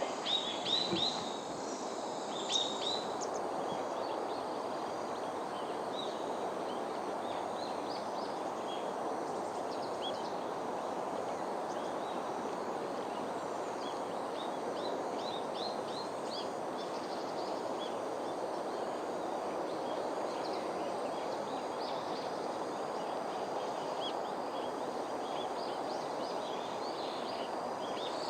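Small wild birds giving short, high chirps, a quick cluster in the first few seconds and then scattered calls throughout, over a steady rushing background noise.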